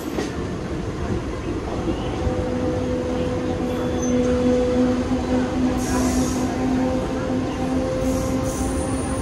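Mumbai suburban electric local train running: a steady rumble, with a steady hum that comes in about two seconds in.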